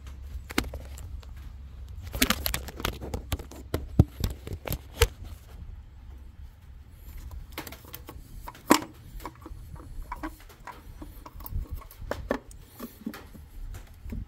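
Hands handling the oil filter and its housing in the engine bay: irregular clicks, taps and knocks of plastic and metal parts with some rustling, the sharpest knock about three quarters of the way through, over a steady low hum.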